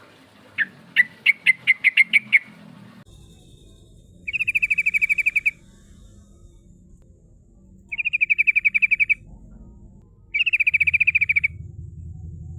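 Yellow-vented bulbul (trucukan) calling. It gives a quickening run of about eight sharp chirps, then three rolling trills of about a second each, a few seconds apart.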